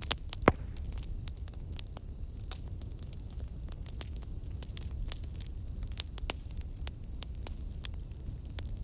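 Wood fire in a fireplace crackling: scattered sharp pops, with one loud pop about half a second in, over a low steady rumble.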